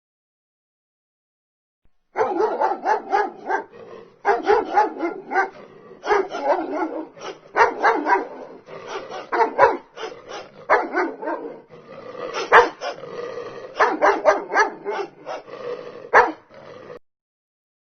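A dog barking over and over in quick runs of barks with short breaks between the runs, starting about two seconds in and stopping shortly before the end.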